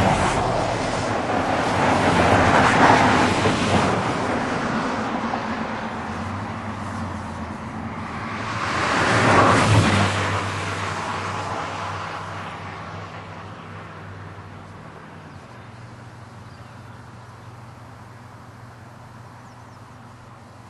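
Vehicles passing on a road, one swelling and fading about three seconds in and a louder one about nine seconds in, each a rush of tyre and engine noise; a steady low engine hum carries on after they fade.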